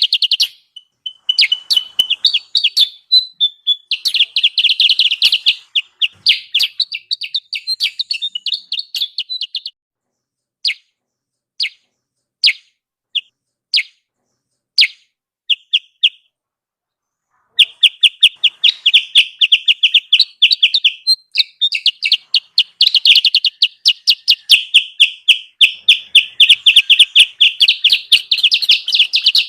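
Kutilang sutra bird-lure call: rapid, high-pitched chattering chirps in dense runs, broken by a stretch of slower separate chirps about a third of the way through and a brief pause before the rapid chatter resumes.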